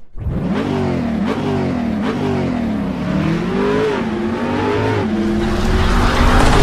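A car engine revving, its pitch rising and falling over and over, getting louder near the end.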